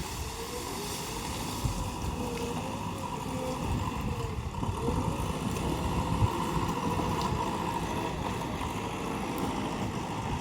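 JCB 3DX backhoe loader's diesel engine running steadily under work, its note wavering up and down with the load, with wind noise on the microphone.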